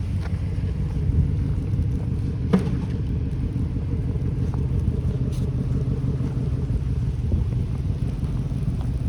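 Steady low rumble of a blizzard-swept city street: wind and traffic noise, with a few faint clicks.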